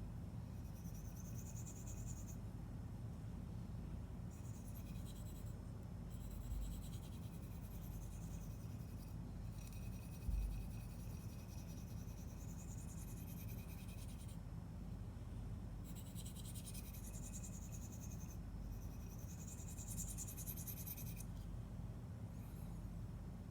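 Spyderco Lil' Native S30V blade being stroked along a sharpening stone, giving runs of rasping, hissy scraping a few seconds long separated by short pauses. A steady low hum runs underneath, and there is a soft thump about ten seconds in.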